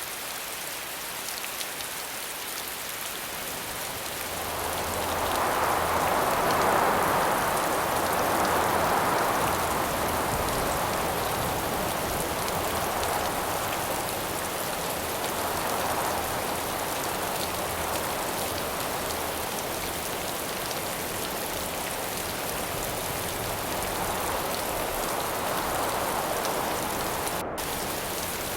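Steady rain falling, with wind gusts that swell and fade several times over it. The strongest gust comes a few seconds in.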